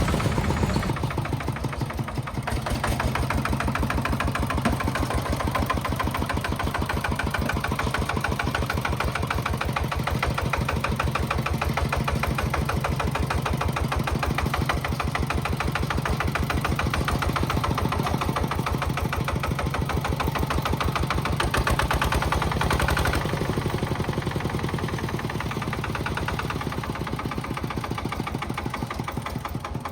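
Small single-cylinder diesel engine of the kind used on power tillers, running steadily with a fast, even firing beat. About two-thirds of the way through its sound changes and it runs a little quieter.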